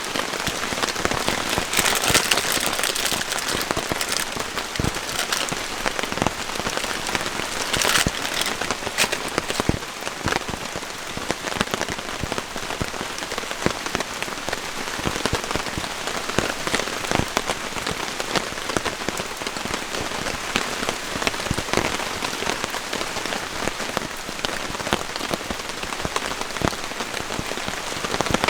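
Steady rain falling, a dense hiss with many close, individual drops pattering.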